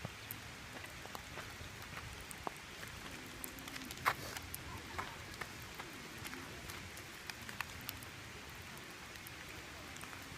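Wood campfire burning low, crackling with sharp, irregular pops, the loudest about four seconds in, over a steady background hiss.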